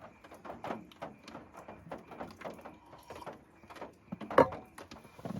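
Scattered light knocks and clicks of objects being handled, with one louder sharp knock a little past four seconds in.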